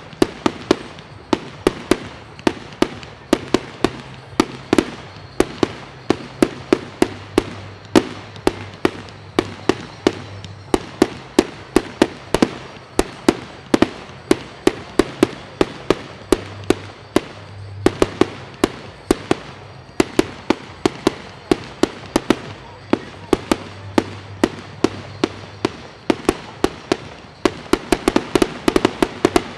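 Aerial fireworks fired shot after shot from one launch point, each rising shell bursting into stars, with sharp bangs coming steadily at about two to three a second.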